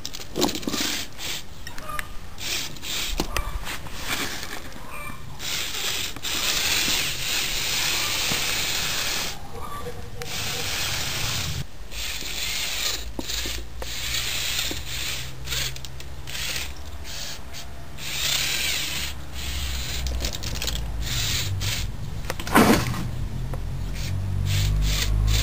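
Electric motors and plastic gear train of a Lego Technic Unimog model truck whirring and grinding as it drives, stopping and starting again many times.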